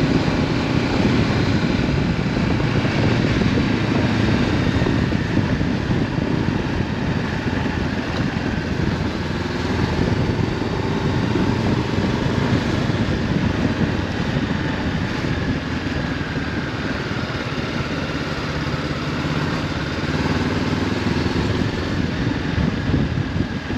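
Honda CB500F's parallel-twin engine running through an Akrapovic exhaust while riding, heard from a helmet-mounted camera over a steady rush of road noise. The engine note eases off in the middle and picks up again near the end.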